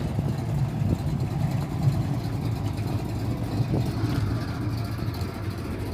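A motor vehicle engine idling steadily, a low continuous rumble.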